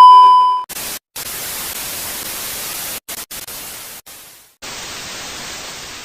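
A loud, steady electronic beep cuts off after about half a second and gives way to harsh white-noise static. The static comes in choppy blocks that start and stop abruptly with short silent gaps, like an edited TV-static glitch effect.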